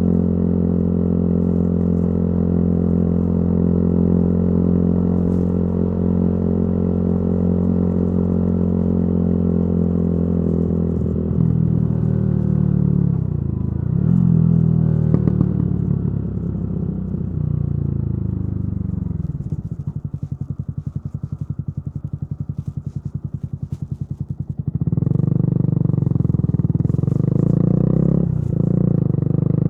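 Yamaha YZF-R125's single-cylinder engine through a modified exhaust, holding steady revs for about ten seconds, then the revs rise and fall. It drops to low revs with a pulsing beat for about five seconds before the throttle opens again near the end.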